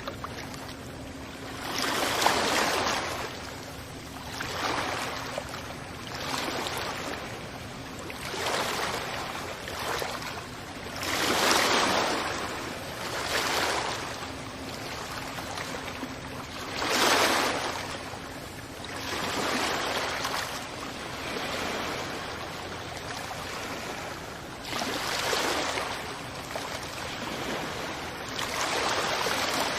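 Waves washing onto a beach, each surge of surf swelling and fading every two to four seconds over a steady wash of water.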